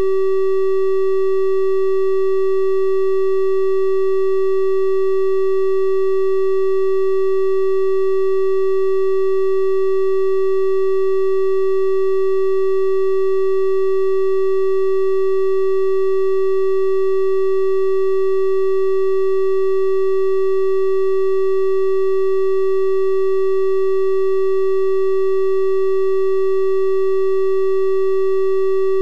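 Synthesized 384 Hz triangle-wave test tone, held steady and unbroken, with faint overtones above the main pitch.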